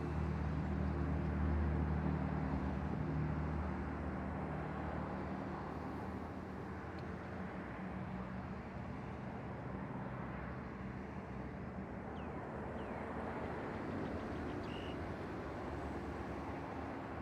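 Low, steady engine hum of a motor vehicle, strongest in the first few seconds and then fading, over a constant outdoor noise background.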